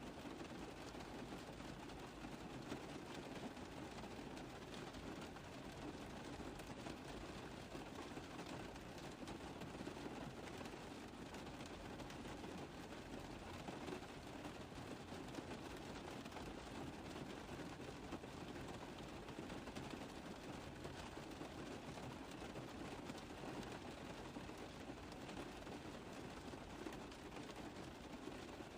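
Rain pattering steadily on a car roof, a dense even patter of drops.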